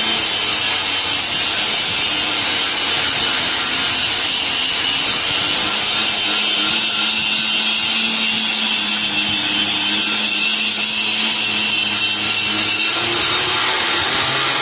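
Angle grinder running continuously against the steel of a car frame, a steady high hissing grind.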